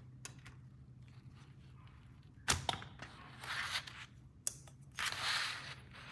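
Plastic toy pieces being handled: a sharp click about two and a half seconds in and another near four and a half seconds, with two short bursts of rustling noise between and after them.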